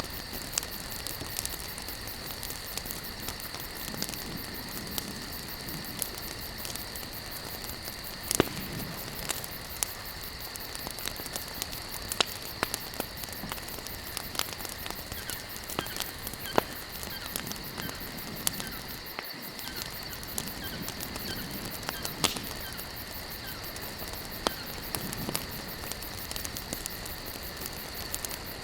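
Campfire logs burning: a steady hiss full of small crackles, with a louder sharp pop every few seconds. A steady insect chorus trills behind the fire.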